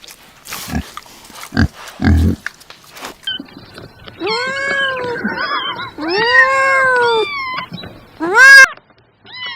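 A cat meowing three times: two long drawn-out meows that rise and fall, then a shorter, louder one near the end. They follow a few seconds of soft thumps and rustling.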